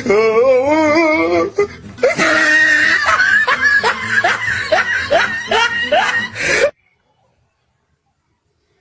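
Laughter over background music: a drawn-out wavering laugh, then a run of quick repeated laughs, cutting off suddenly near the end.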